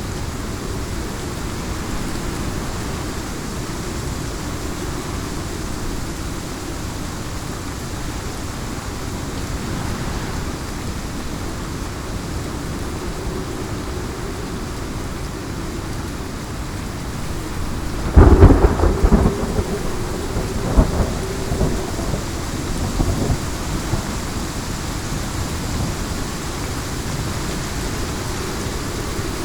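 Heavy rain falling steadily, with a loud, crackling clap of thunder about two-thirds of the way in that rumbles on for several seconds before fading back into the rain.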